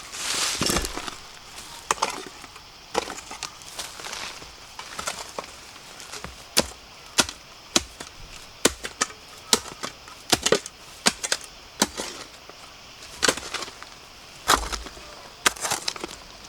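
A blade chopping into bamboo shoots: a string of sharp, irregular strikes, roughly one or two a second.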